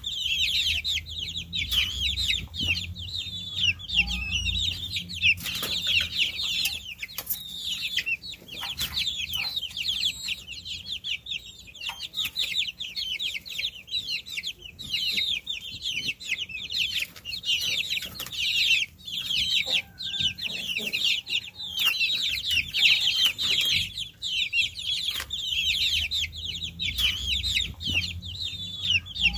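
A brood of baby chicks peeping continuously: a dense chorus of many short, high-pitched chirps overlapping without a break, over a faint low hum.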